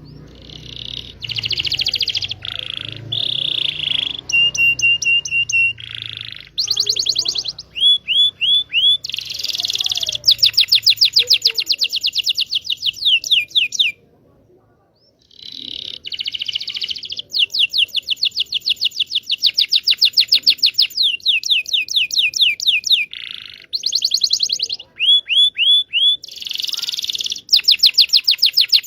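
Canary singing a long, varied song of fast trills, series of downward-slurred notes and short held whistles, with a brief pause about halfway through before it starts again.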